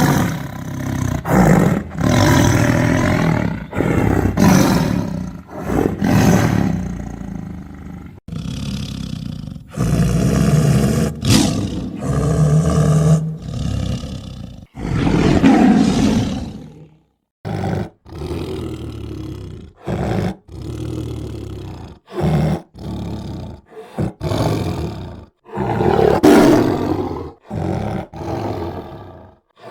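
Tiger roaring and growling over and over in a string of spliced roars, each cutting off abruptly before the next begins. The loudest roars come about two, six, sixteen and twenty-six seconds in.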